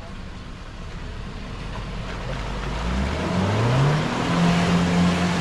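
Off-road 4x4's engine building up revs, a rising whine settling into a steady higher pitch from about halfway in, with a rumbling churn underneath.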